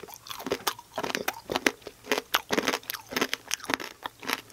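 Two people crunching and chewing candied-blueberry tanghulu: the hard sugar coating cracks between the teeth in many quick, irregular crunches, close to the microphone.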